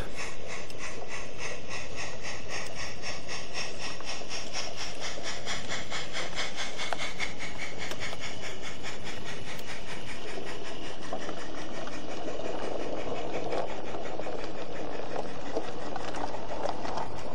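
A 16mm-scale live-steam garden railway locomotive pulling away with a goods train: a steady hiss of steam with a regular, rapid rhythm of exhaust beats.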